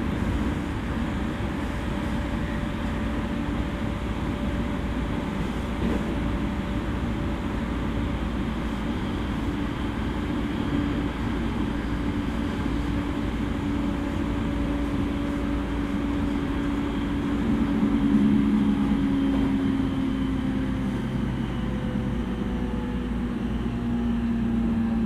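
E231 series electric train running, heard from inside the passenger car: a steady rumble of wheels on rail, with thin motor tones that shift in pitch over the second half.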